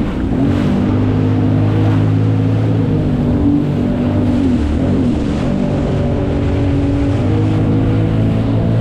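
Jet ski engine running under way, its pitch dipping and rising a little as the throttle changes, with water and wind rushing past.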